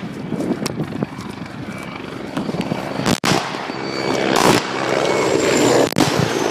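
Helicopter overhead, its engine and rotor drone growing louder, with a faint thin turbine whine. Sharp knocks from the phone being handled, the loudest about three seconds in.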